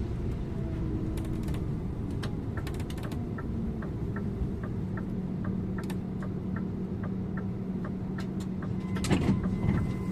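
Scania InterLink bus's diesel engine and road noise from the driver's seat. A turn-signal indicator ticks evenly, about three clicks a second, from about two seconds in. A brief louder burst of noise comes near the end.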